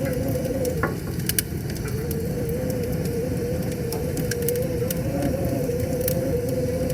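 Wood fire crackling, with scattered sharp pops, over the steady rush of a flowing river and a faint wavering hum.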